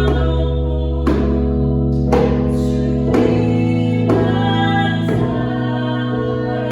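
Contemporary worship song: sustained keyboard chords over a bass line with a voice singing, and a struck beat, likely the djembe, about once a second.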